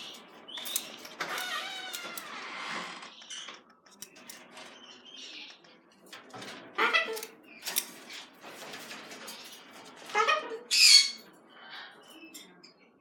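Pet birds calling and squawking in short, irregular bursts. The loudest, shrill squawks come about seven and eleven seconds in.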